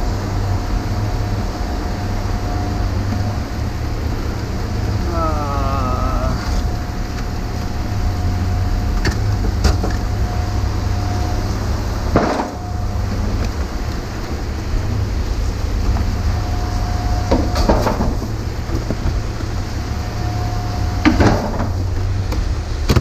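Heavy rain falling, over a steady low rumble and a faint steady whine, with a few sharp knocks in the second half.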